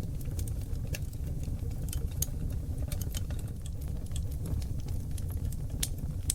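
Oak logs burning in a fireplace: a steady low rumble of flames under frequent, irregular sharp crackles and pops, a few of them louder than the rest.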